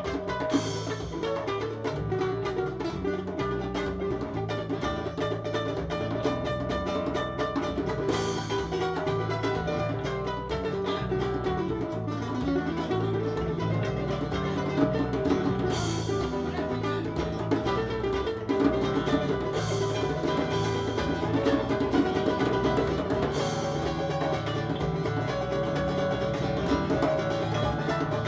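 Live acoustic band playing an instrumental passage: a busy, rhythmic acoustic guitar part over bass and percussion, with a bright wash about every eight seconds.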